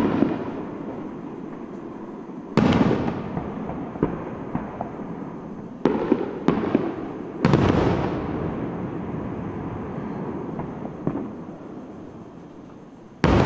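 Aerial firework shells bursting: about four sharp booms, each trailing off in a long rolling echo, with smaller pops between them and a last boom near the end.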